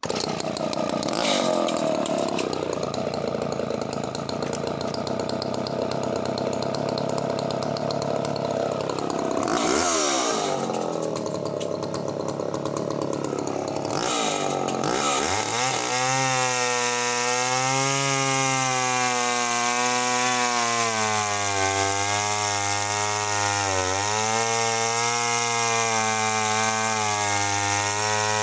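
Sachs Dolmar 118 Super 45cc two-stroke chainsaw running hard through a larch log, its engine pitch dipping and recovering as the chain loads. About halfway through, the engine note turns clearer and steadier, still wavering in pitch.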